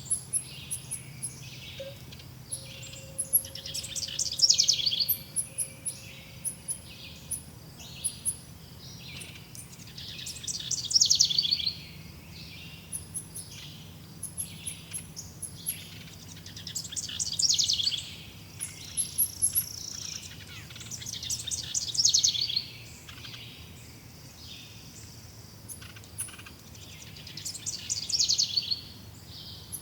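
Birdsong: one bird repeats a loud, rapid trilled phrase about every six seconds, while thin high chirps from other birds run throughout over a faint steady low hum.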